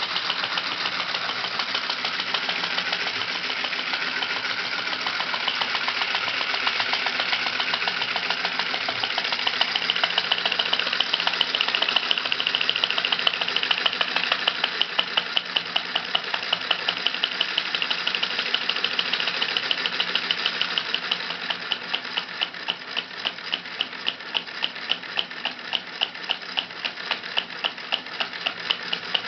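Small model oscillating twin-cylinder engine running with a rapid, even mechanical clatter. Past the middle the beat slows into distinct clicks about three a second.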